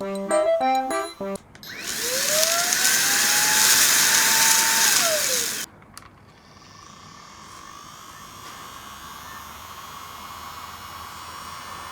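Miniature capsule-toy handheld vacuum cleaner running. Its small motor whines up to speed, runs with a loud hiss for about four seconds, then winds down and stops. A fainter steady hiss of the vacuum follows.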